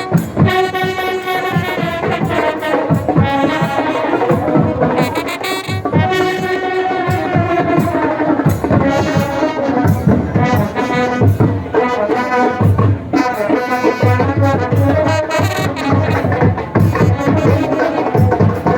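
Indian brass band (band baaja) playing a melody on trumpets and trombones over drums.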